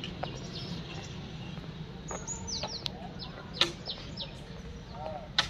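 Birds calling in short, high chirps that sweep downward, repeated again and again. Two sharp clicks stand out as the loudest sounds, one about three and a half seconds in and one near the end.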